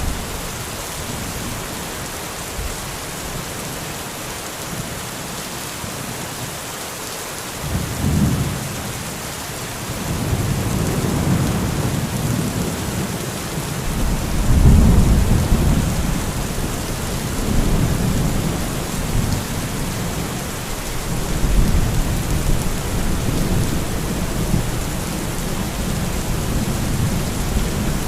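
Steady rain hissing, with thunder rumbling in about eight seconds in. A long rolling peal builds to its loudest near the middle, and further rumbles follow.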